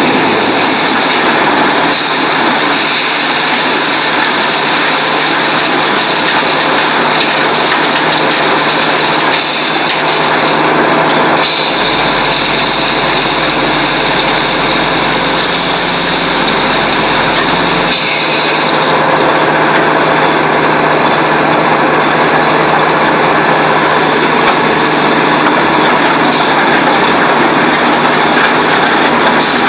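Concrete batching plant machinery running steadily and loudly, a constant mechanical clatter and hum, with a deeper low drone joining for about six seconds in the middle.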